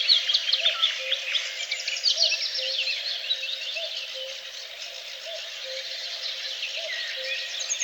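A chorus of songbirds: many quick, falling whistled chirps and trills that thin out in the middle and pick up again near the end. Under them a lower short call repeats about once a second.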